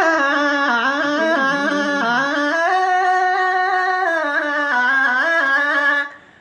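A solo voice sings unaccompanied in the Iraqi tarab style: one long melismatic phrase with ornamental turns and wavering pitch. It is held for about six seconds and breaks off sharply near the end.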